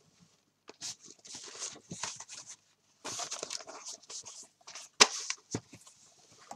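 Folded book pages rustling and crinkling in short irregular bursts as the book is handled and pressed together, with one sharp click about five seconds in.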